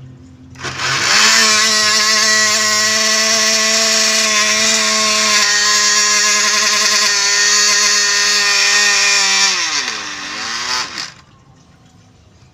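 Small Tamiya DC hobby motor turning the bottle boat's propeller shaft: it spins up about a second in, holds a steady high whine, then winds down in pitch and stops near the end.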